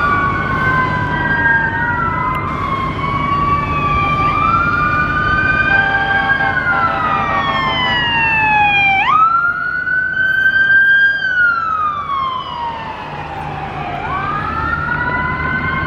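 Federal Q2B mechanical siren on a fire truck winding up and coasting down in long, slow wails, overlapping a second siren's wail; it rises sharply twice, about nine and fourteen seconds in. A steady horn-like tone sounds from about six to eight seconds in.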